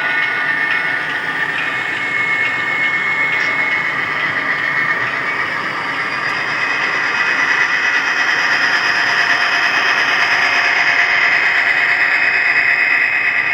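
HO scale model train running on the layout, a steady mechanical running noise that grows slightly louder toward the end as it comes closer.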